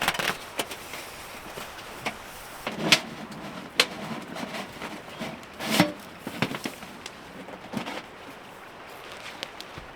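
Irregular sharp knocks and clanks, a few with a short metallic ring, loudest about three, four and six seconds in, from a portable wood stove being set up.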